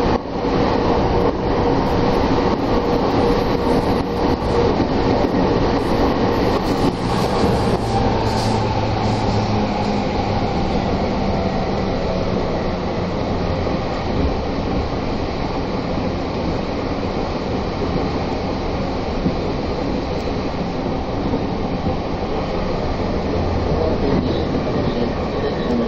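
Tokyo Metro Tozai Line commuter train running on its above-ground section, heard from inside the carriage: a steady rumble of wheels on rail, with a faint whine that fades out about ten seconds in.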